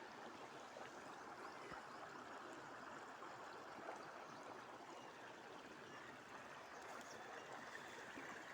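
Spring-fed stream babbling, faint and steady.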